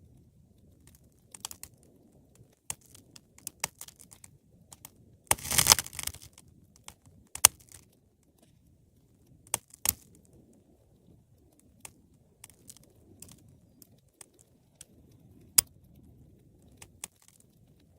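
Wood fire crackling in a fireplace: irregular sharp pops over a faint low rumble of flame, with a dense burst of crackling about five seconds in and a few louder single pops after it.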